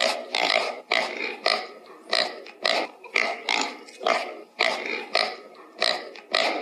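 A pig grunting over and over in short, rough grunts, about two a second.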